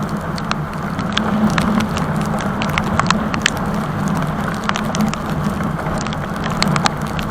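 Yamaha R15 V3's single-cylinder engine running at a steady pace while the bike is ridden, under a haze of wind noise, with scattered sharp ticks throughout.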